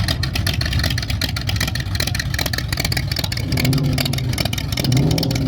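Classic show cars' engines rumbling low as they drive out past, with one engine's note rising and falling in the second half as it revs.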